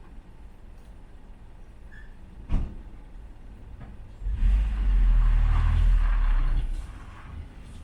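Thunder: a short sharp crack, then from about four seconds in a loud, deep rumble that lasts about two and a half seconds before dying away.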